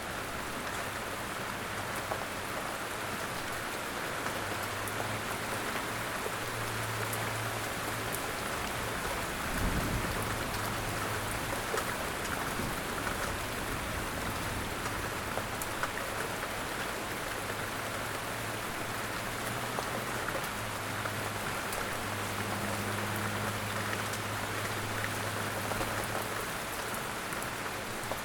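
Steady rain falling, with single drops ticking through the hiss. A low rumble swells underneath twice, and a short low thud comes about ten seconds in.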